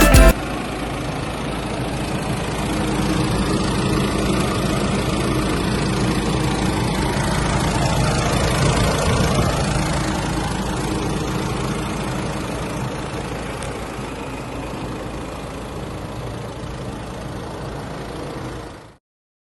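Nissan Navara's 2.3-litre four-cylinder diesel engine idling steadily. It grows a little louder for a few seconds, then eases off and stops suddenly near the end.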